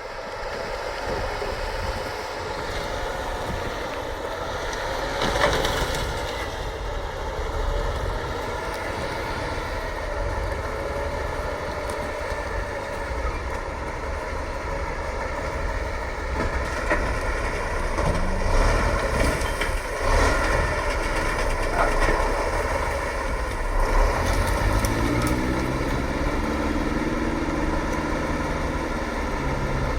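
Heavy off-road trial truck's engine running with a deep, steady rumble, broken by a few short knocks. Near the end the engine's pitch rises and then falls over a few seconds.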